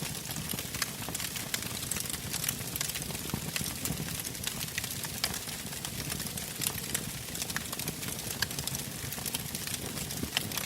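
Wood campfire burning, logs crackling and popping in frequent, irregular snaps over a steady low rumble of the flames.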